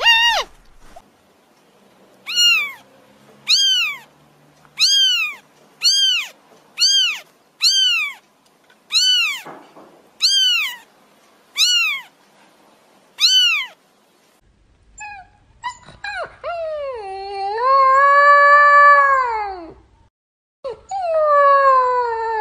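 Kittens meowing: about a dozen short, high meows, roughly one a second. About 15 s in, puppies take over with long, wavering whines, each drawn out over a few seconds.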